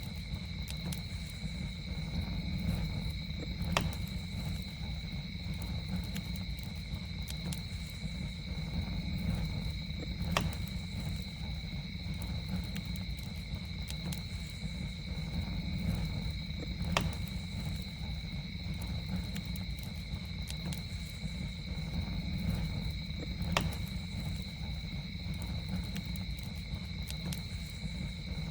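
Campfire burning with a steady low rumble, and a sharp crackling pop about every six or seven seconds. Under it runs a steady high-pitched drone of night insects.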